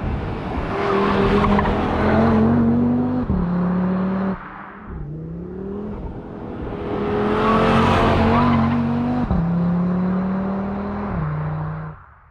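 The turbocharged 2.5-litre inline five-cylinder of a 2022 Audi RS3 Sportback is accelerating hard. Its pitch rises with the revs and steps down suddenly at each gear upshift. There are two such pulls, with a short break between them.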